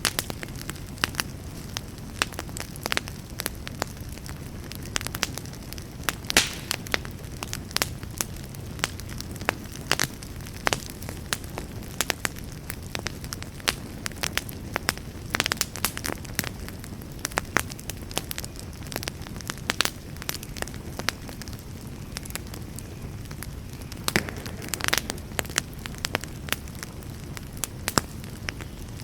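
Wood campfire burning, with a steady low rush of flame and many irregular sharp pops and crackles from the burning wood.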